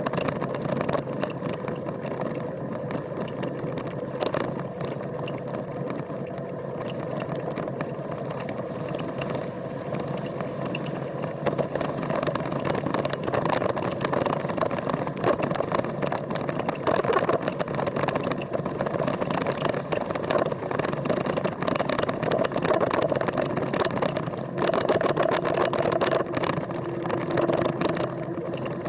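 An engine running steadily with a held hum, its pitch shifting lower about 25 seconds in, with scattered crackles over it.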